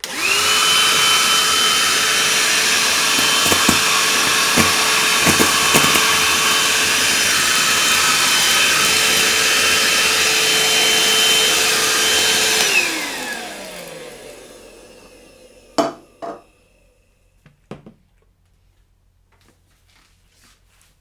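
Einhell PXC-TE-VC 18 Li cordless handheld vacuum cleaner switched on, running loud and steady with a high motor whine, with a few sharp clicks of debris being sucked up. After about thirteen seconds it is switched off and the whine falls away as the motor spins down, followed by a couple of handling knocks.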